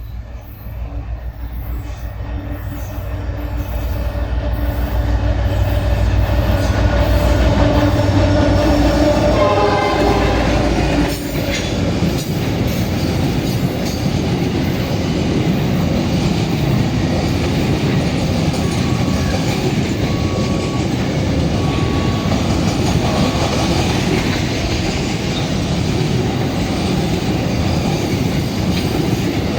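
A diesel freight locomotive approaches with its engine rumble growing louder, then passes about ten seconds in as its tones drop in pitch. A long string of loaded freight wagons follows, rolling past with clickety-clack and some wheel squeal.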